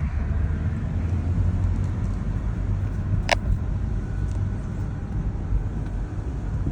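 2007 BMW 328i wagon driving at road speed with the windows down, heard from inside: a steady low rumble of road, tyre and wind noise with no rattles or knocks from the car. A single short sharp click about three seconds in.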